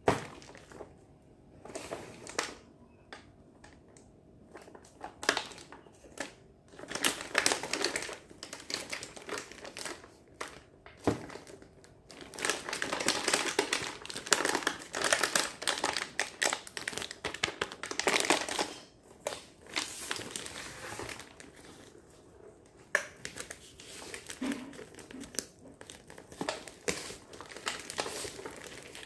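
Packaging of a miniature toy kitchen set crinkling and rustling in irregular bursts as it is unwrapped and handled, with a few sharp clicks.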